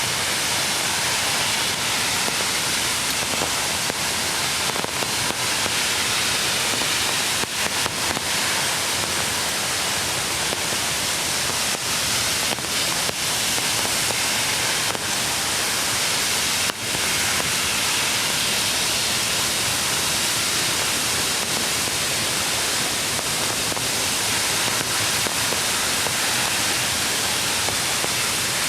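Steady rush of a mountain creek's flowing water, an even hiss at constant level, with a few faint clicks.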